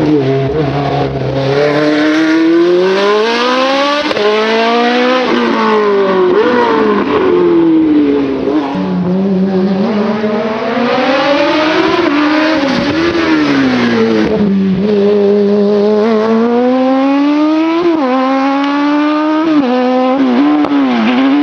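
Racing car engine at high revs climbing the hill, its pitch rising steadily and dropping sharply at each quick upshift. Several times it falls away as the driver lifts for a bend, then pulls up through the gears again.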